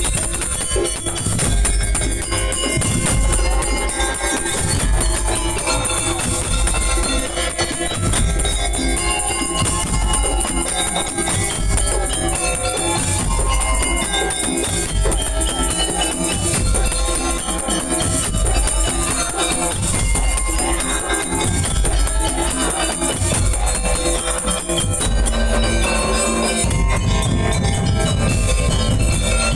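Madurese daul percussion ensemble playing: heavy drum beats driving a steady rhythm, with tambourine jingles and a wavering melodic line over it.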